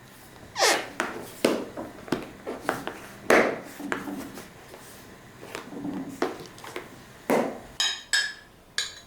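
Kitchen handling sounds: a series of knocks and clatters from utensils and dishes being picked up and set down, with a couple of short ringing clinks near the end.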